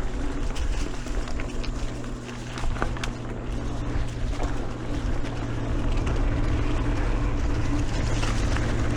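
Mountain bike riding along a dirt singletrack trail: steady wind and rolling noise with a constant low hum, and scattered clicks and rattles from the bike.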